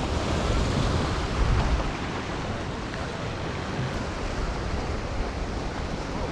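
Gulf surf washing in steadily, with wind, and a louder rush of water about a second and a half in.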